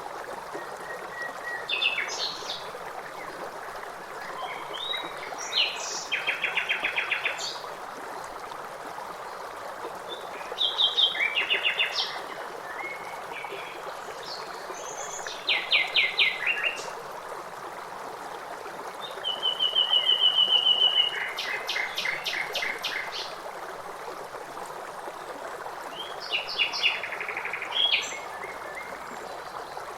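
Songbird song in short phrases of rapid repeated notes and trills, coming every few seconds, over the steady rush of flowing water.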